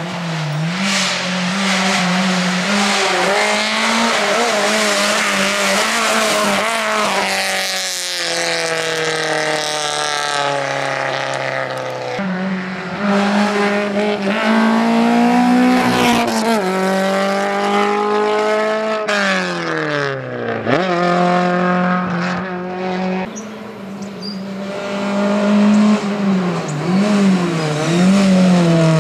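Skoda Favorit rally car's engine revving hard. Its pitch climbs and then drops sharply several times as it shifts gears and lifts off, with tyres squealing at times.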